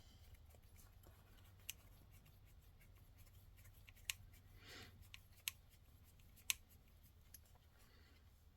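Mostly quiet, broken by a handful of sharp little clicks and a brief soft rustle just before the middle: small kit parts and tools being handled during assembly.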